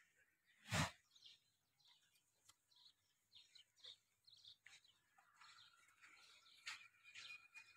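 Faint bird chirps and calls in quiet surroundings, with a held, wavering call near the end. A single short, loud burst of noise sounds about a second in.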